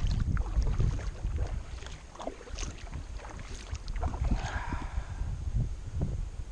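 Kayak paddle strokes dipping and splashing in river water, with wind buffeting the microphone.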